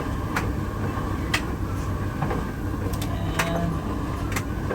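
Midea heat pump clothes dryer running: a steady low hum from the machine, with about six sharp clicks spaced irregularly over it.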